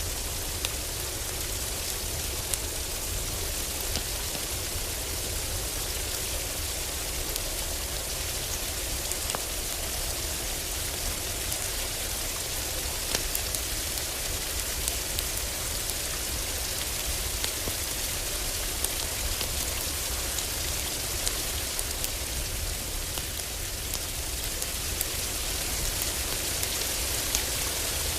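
Heavy rain falling steadily on a roof, with a low rumble underneath and a wood fire crackling in short sharp pops scattered throughout.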